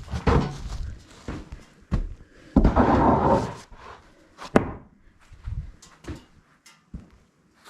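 Wooden knocks and thuds of freshly sawn boards being handled and set down, including a sharp crack about four and a half seconds in. There is a longer noisy scrape-like stretch about two and a half to three and a half seconds in.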